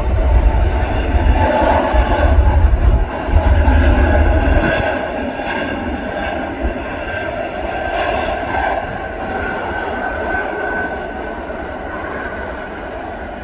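Jet airliner's engines at takeoff power, a steady rush and rumble with a faint whine, fading as it climbs away. The deepest rumble drops off about five seconds in.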